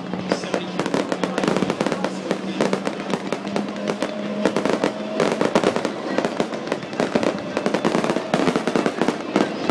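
Aerial fireworks display: shells bursting and crackling in rapid succession, a dense run of sharp pops and bangs with no break.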